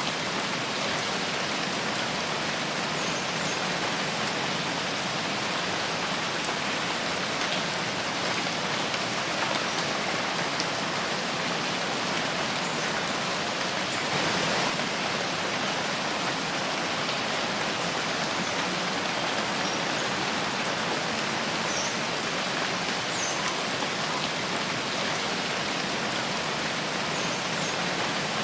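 Steady rain falling in a forest, an even hiss of drops with a brief slight swell about halfway through. A few faint, short high chirps sound here and there.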